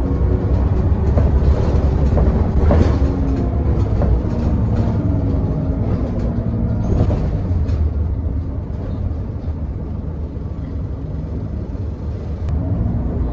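Scania L94UB bus running along on its route: steady engine sound with rattles and knocks from the body, easing off a little past halfway.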